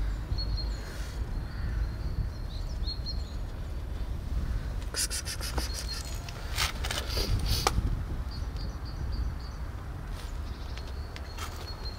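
Small birds chirping in short high calls over a steady low rumble, with a cluster of sharp clicks and rustles about halfway through.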